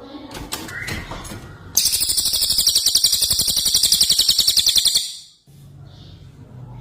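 Cucak ijo (green leafbird) singing: a few short chirps, then a loud, very rapid, high-pitched rattling trill lasting about three seconds that stops abruptly, followed by a softer call near the end.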